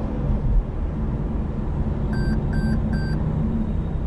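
Steady low road and engine rumble of a car driving, with three short, high electronic beeps in quick succession about two seconds in.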